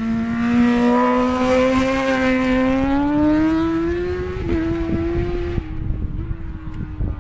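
A single race motorcycle accelerating past at high revs, its engine note climbing steadily, with a small step in pitch at a gear change about four and a half seconds in, then fading away. Wind buffets the microphone underneath.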